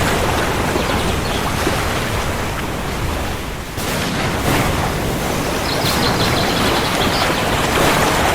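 Heavy rain falling steadily, with a low rumble underneath. The rain dips briefly about three and a half seconds in, then carries on.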